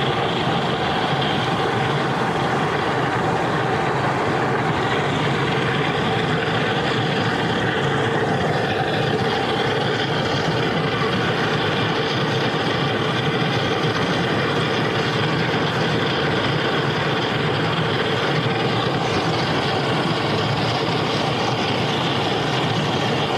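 Hot tub jets running, a steady churning rush of bubbling water with a faint steady hum in it.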